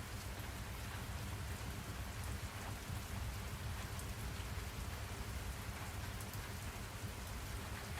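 Steady rain with drops pattering on a surface and a deep, continuous low rumble underneath.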